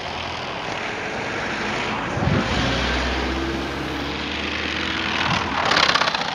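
Plastic bottle fixed to a bicycle, slapped by the turning spokes: a rapid buzzing rattle like a small motor, swelling to its loudest near the end.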